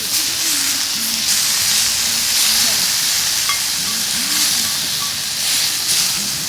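Food sizzling and frying in a hot pan: a steady hiss.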